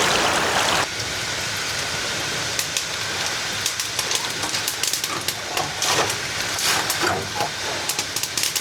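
Dough frying in hot oil: a steady sizzling hiss with many sharp pops and crackles. It comes in about a second in, replacing a louder, even rushing noise.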